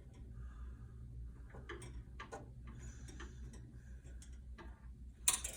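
Scattered light clicks and taps of hand tools and metal parts being handled while the blower assembly of a PTAC heat pump is taken apart, over a steady low hum, with a louder clatter near the end.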